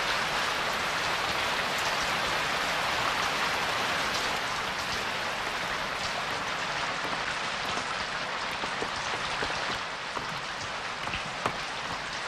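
Steady rain falling, a dense even hiss, with a few sharp drip ticks in the latter part.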